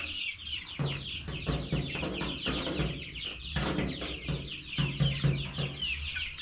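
A flock of young chickens peeping continuously: many short, high cheeps overlapping without a break, with lower clucking in stretches underneath.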